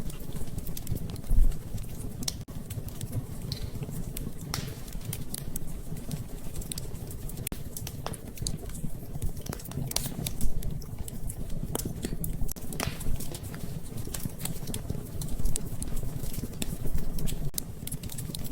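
Wood fire crackling in a fireplace: a steady low rumble of flames with irregular sharp pops and snaps, a few louder ones, including one about a second and a half in and another about ten seconds in.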